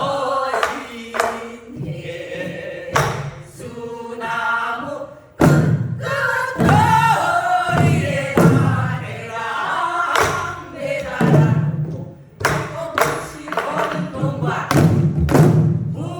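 A group singing a Korean traditional song together while beating buk barrel drums, with a sharp drum stroke every second or two under the voices.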